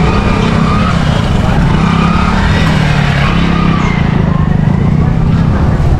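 Busy street traffic, with a motor vehicle's engine running steadily close by and faint voices underneath.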